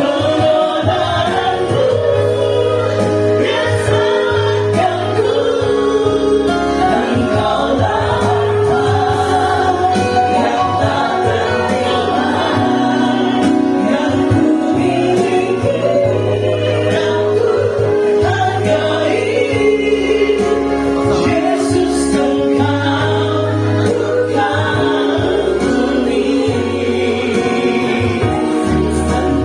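Choir singing a hymn, mixed voices over a steady low bass accompaniment.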